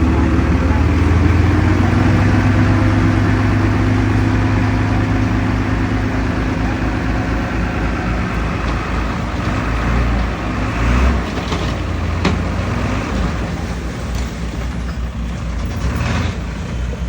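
Heavy diesel earthmoving machinery running: a deep, steady engine drone that is loudest for the first several seconds, then eases about halfway through, with a few short knocks in the second half.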